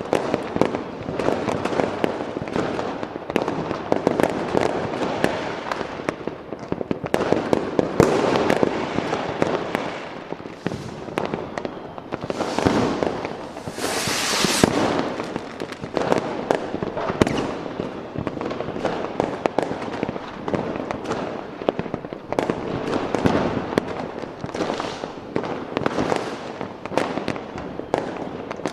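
A continuous fireworks display: dense, overlapping bangs and crackles with no gaps. About halfway through, a louder hissing burst rises and fades over a couple of seconds.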